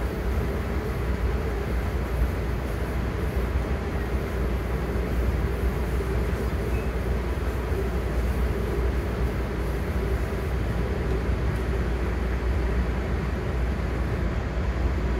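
Steady low rumble of a MARC commuter train running at speed, heard from inside a passenger car.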